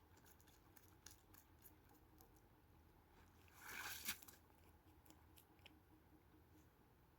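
Near silence with faint scattered clicks and crunches, and one brief rustling burst a little past the middle.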